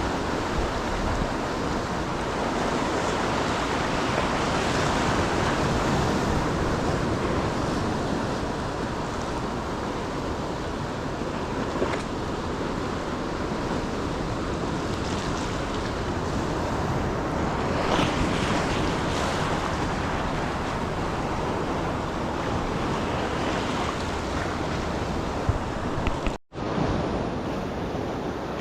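Ocean surf breaking and washing up the beach, a steady rush that swells and eases, with wind buffeting the microphone. The sound cuts out for an instant near the end.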